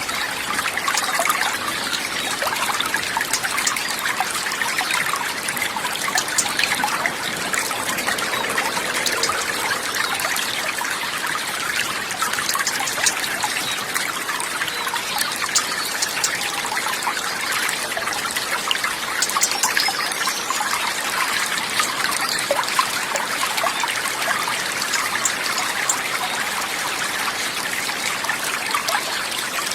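Running water trickling steadily and evenly, with no change over the whole stretch.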